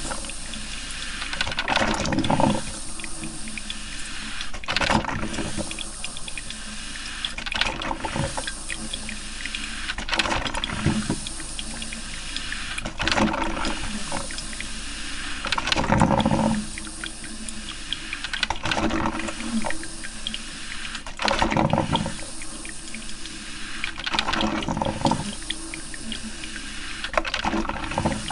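Coffee maker brewing: water gurgles and spurts in irregular surges every two to three seconds over a steady hiss.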